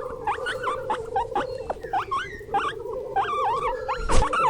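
Guinea pig squeaking: a rapid run of short squeaks that rise and fall in pitch, over a steady background tone. A sharp click sounds about four seconds in.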